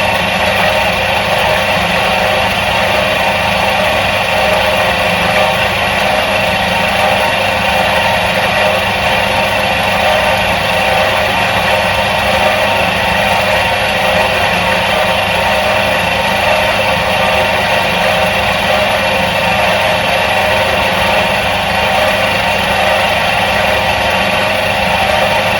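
The electric motor of a 1977 Soviet washing machine running steadily. It makes a constant low hum under an even, higher whirr that does not change.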